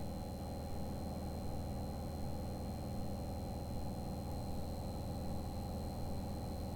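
Piper single-engine plane's piston engine running steadily at climb power, heard inside the cabin, with a thin steady high-pitched whine over it.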